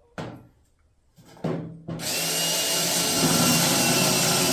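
Power drill spinning up about two seconds in and running steadily, drilling a hole through the pickup's sheet-metal bedside, after a couple of short scraping sounds.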